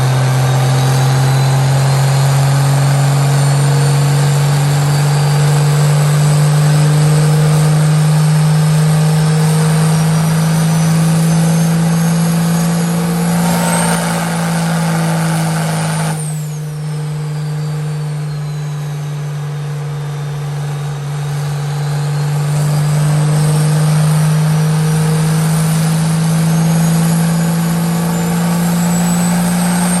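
Turbo-diesel truck engine running hard on a chassis dyno, its note climbing slowly under load with a rising turbo whistle. About halfway through the noise drops suddenly and the whistle falls away, then the engine note and whistle climb again.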